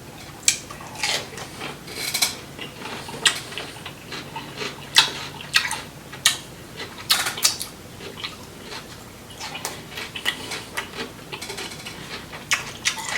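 Close-up wet chewing and smacking of someone eating a seafood boil, with irregular sharp clicks and crackles through it.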